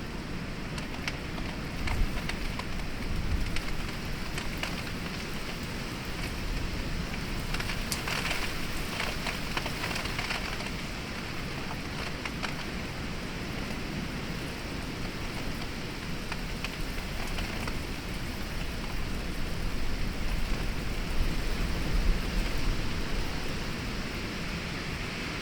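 Heavy storm rain falling steadily, with close drops tapping. Low gusts of wind swell louder about two seconds in and again near the end.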